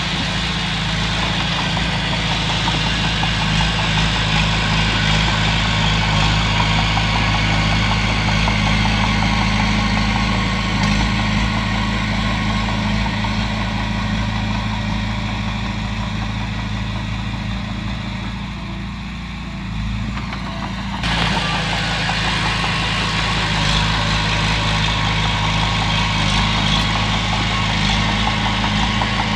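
Komatsu bulldozer's diesel engine running steadily under work. About two-thirds of the way through it eases off briefly, then picks back up abruptly.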